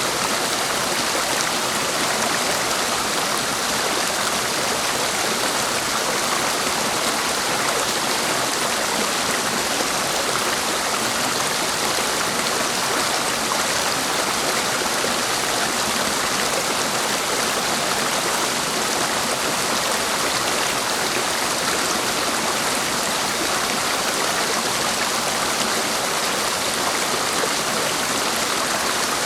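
Clear mountain stream flowing over rocks: a steady, even rush of water that does not change.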